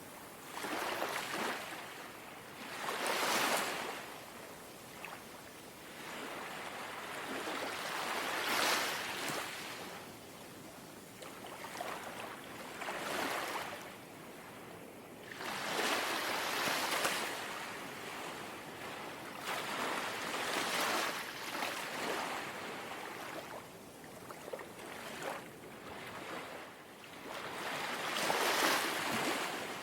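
Gentle sea waves lapping on the shore, each wash swelling and fading every four to five seconds.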